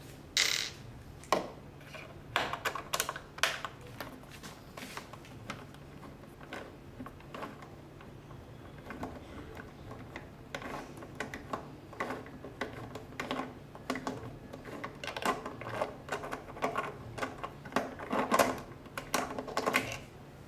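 Irregular clicks, taps and knocks from hard parts being handled while a cryo beauty machine is taken apart. They come more often in the second half, over a faint steady low hum.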